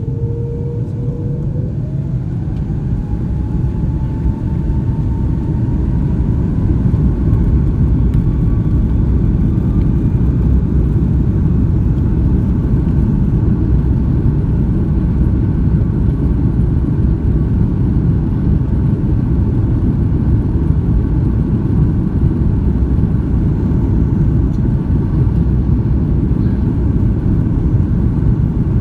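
Airbus A330-300's jet engines spooling up to takeoff thrust, heard inside the cabin: a whine rising in pitch over the first ten seconds as the sound grows louder, then a steady loud rumble.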